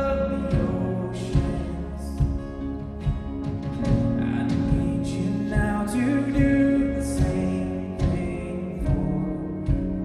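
Live worship band playing: a singer's voice gliding between notes over drums, bass, guitars and keys, with the sound of the room around it.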